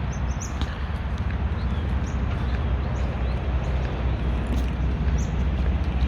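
Footsteps walking on a hard surface with scattered light clicks, over the steady low hum of an idling truck diesel engine.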